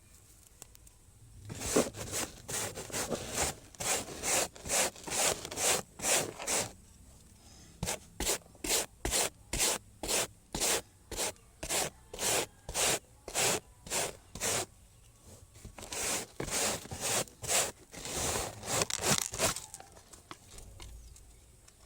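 Repeated rubbing strokes of hand scrubbing, about two a second, in three runs with short pauses about 7 and 15 seconds in.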